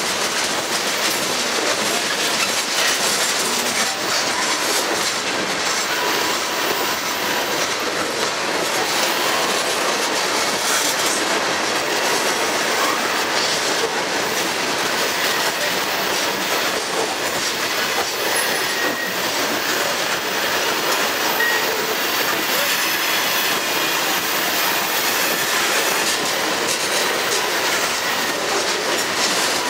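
Tank cars of a freight train rolling past close by: a steady rumble and rattle of wheels on rail, with faint high wheel squeals at times.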